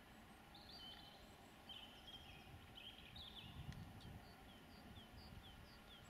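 Faint outdoor birdsong: a small songbird's warbling phrase, then a regular run of short falling chirps, over a low background rumble.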